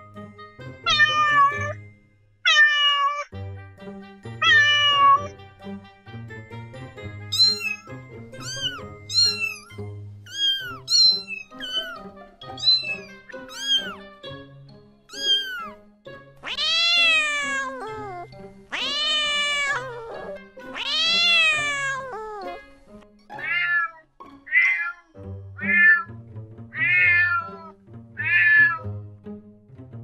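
Cats and kittens meowing over and over: a few meows, then a run of short high-pitched mews, three long meows in the middle, and another run of short meows. Soft background music plays underneath.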